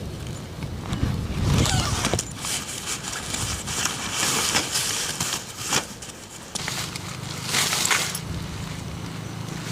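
Irregular rustling and scraping with occasional clicks, like gear or fabric being handled. A steady low hum comes in about two-thirds of the way through.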